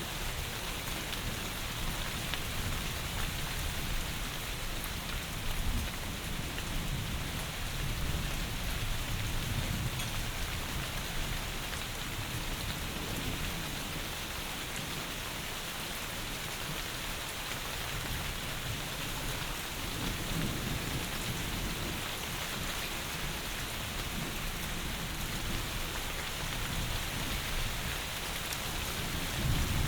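Heavy rain falling in a steady, dense hiss, with low rumbles of distant thunder swelling under it about a third of the way in, around two thirds of the way in and again at the very end.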